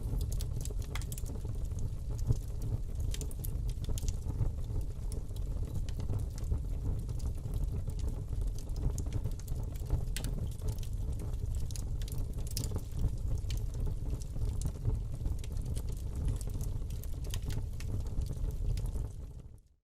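Wood fire burning in a fireplace: a steady low rumble of flames with scattered crackles and pops. It fades to silence right at the end.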